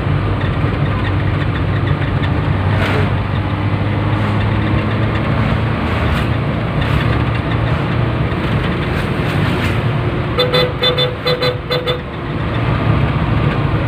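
A 1986 Suzuki Carry's engine runs steadily as the van drives along. Near the end comes a quick string of about five short car-horn toots.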